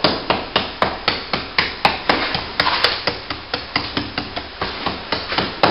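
Hammer striking plaster in quick, even blows, about four a second, knocking open a crack in the wall back towards the brick.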